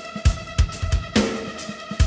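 A band playing live: a steady drum beat with kick hits and one hard hit about a second in, under sustained chords.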